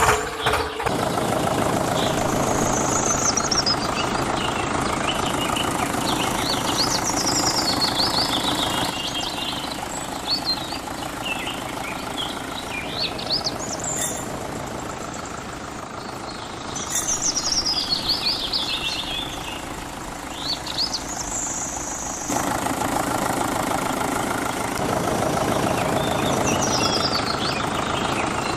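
Small engine of a DIY mini tractor idling with a fast, even knocking beat; it is quieter through the middle stretch. Birds chirp over it.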